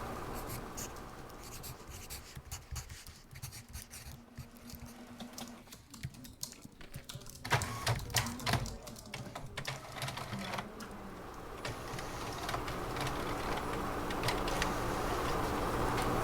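Typing on a computer keyboard: irregular key clicks, with a quicker, louder run of keystrokes about halfway through, over a low office background hum that grows toward the end.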